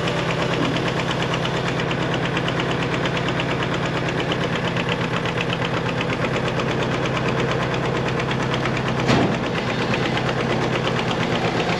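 An engine running steadily at idle with an even, rapid pulse, and one sharp knock about nine seconds in.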